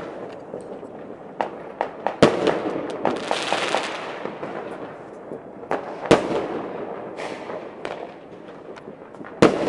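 Fireworks going off at a distance: scattered booms with rolling echoes, the loudest about two seconds in, about six seconds in and near the end. Between them come small firecracker pops and, around three to four seconds in, a short crackling hiss.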